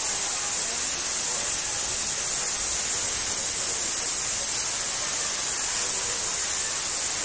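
Steady hiss of rushing, splashing water, with faint distant voices beneath it.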